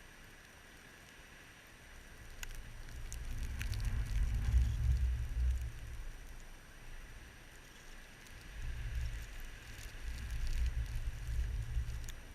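Blizzard wind gusting twice, buffeting the microphone with a low rumble, over a faint steady hiss with scattered light ticks.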